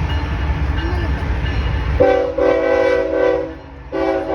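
BNSF freight train rumbling past, then a locomotive air horn sounds a chord of several notes about halfway through, stops, and sounds again briefly near the end.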